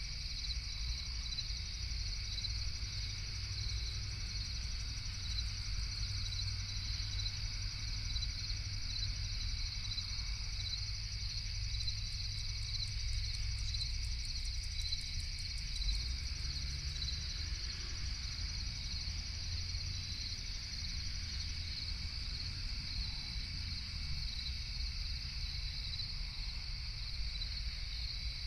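Crickets chirping in a steady, rapid high pulsing chorus over a constant low rumble.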